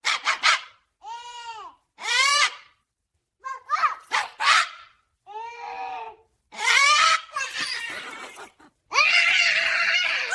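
A parrot giving a series of about nine loud squawking calls, each rising and then falling in pitch, with short pauses between them; the last call is longer and harsher.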